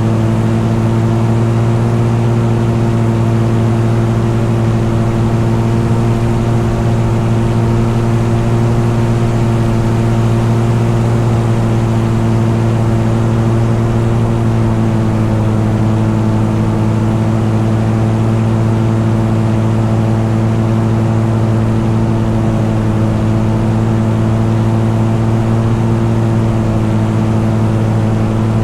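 An engine running steadily at a constant cruising speed with a continuous drone. Its pitch dips slightly about halfway through.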